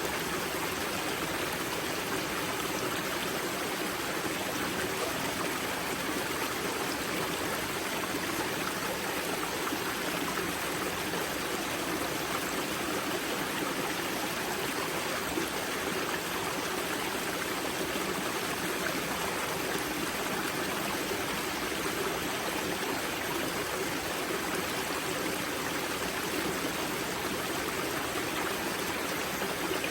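Water of a spring-fed mountain river rushing and splashing steadily at its source, a continuous even flow.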